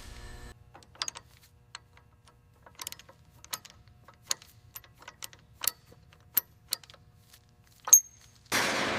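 Scattered light clicks and taps of small hard objects, about a dozen over several seconds. One near the end is louder and has a brief high metallic ring. Just before the end a loud steady hiss starts suddenly.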